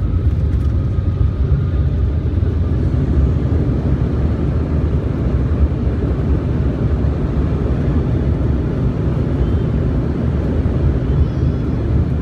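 Jet airliner heard from inside the cabin around landing: a steady, loud low rumble of engines and airflow.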